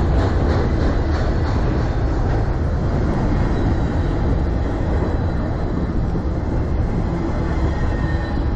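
Freight train of autorack cars rolling past close by: a steady heavy rumble of steel wheels on the rails, with a few wheel clicks over rail joints near the start.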